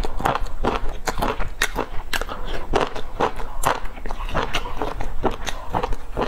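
Close-miked chewing and smacking of a person eating, about two or three wet mouth sounds a second, with a bite into a pan-fried flatbread near the end.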